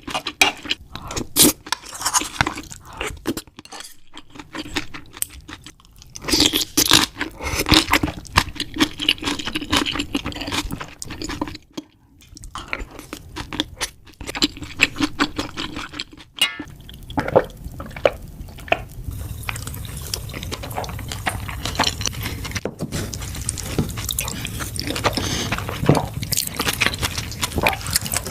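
Close-miked eating sounds: chewing and biting with clicks of cutlery against dishes. About halfway through the sound changes, and a steady low hum runs under the chewing.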